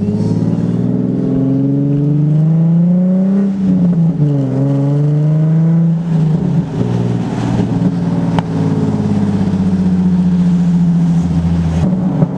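Infiniti G37's 3.7-litre V6 exhaust heard from inside the cabin as the car pulls away: the engine note climbs, drops sharply about three and a half seconds in, climbs again, then settles into a steady cruise. The exhaust has a gap between the muffler and the Y-pipe, so it runs deeper and rowdier than stock.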